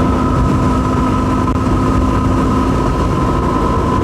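Yamaha WR250R's single-cylinder four-stroke engine running at a steady cruise, with wind rush and road noise.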